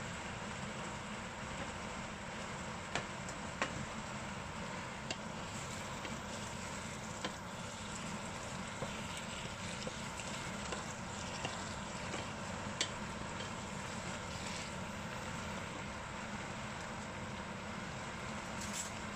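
Celtuce sizzling steadily as it is stir-fried in a pot, with a wooden spatula knocking against the pot now and then in a few sharp clicks.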